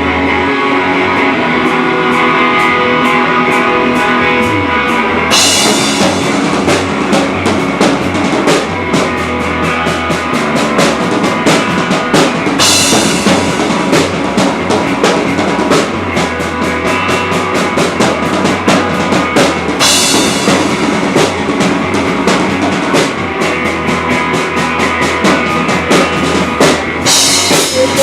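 A live rock trio playing an instrumental stretch of a song: electric guitar and bass first, then a full drum kit comes in about five seconds in, with loud cymbal crashes about every seven seconds.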